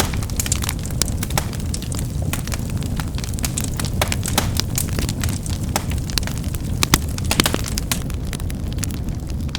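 Wood fire burning with a steady low rumble and frequent irregular crackles and pops, a couple of sharper pops past the middle.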